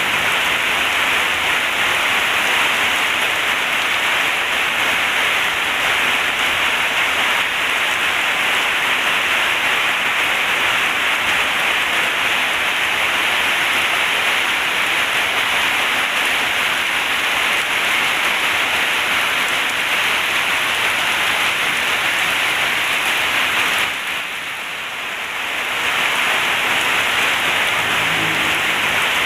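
Heavy rain in a steady, dense downpour, briefly softer for a couple of seconds near the end.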